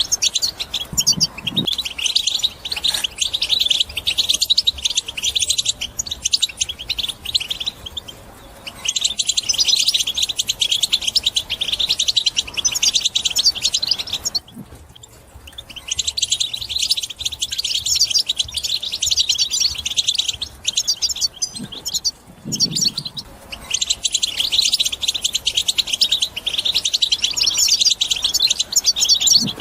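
European goldfinch singing: long runs of fast, twittering song, broken by three short pauses.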